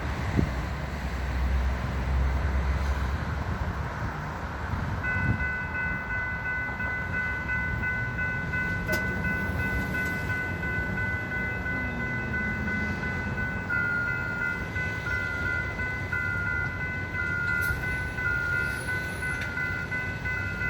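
Metra F40PH diesel locomotive's multi-chime air horn sounding one long, unbroken chord from about five seconds in, its lowest note starting to flutter up and down about halfway through. Before the horn, a low rumble with wind on the microphone.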